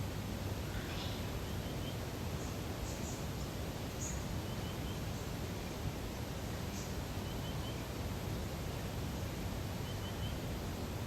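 Lakeside nature ambience: a steady soft hiss of outdoor air, with faint small birds calling. One bird gives a quick triple chirp about every three seconds, and a few brief higher chirps come in the first half.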